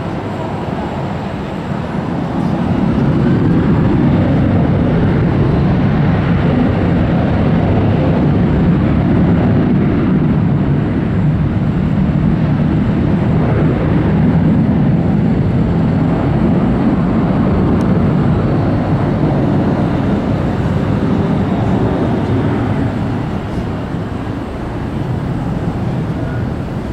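Jet airliner engines passing close by: a loud, steady rumble that builds about two seconds in, holds, and eases off near the end.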